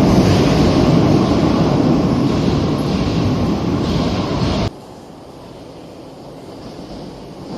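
Madrid Metro train running through the station, a loud, even rumble that eases slightly and then stops abruptly about two-thirds of the way in, leaving a much quieter steady background hum.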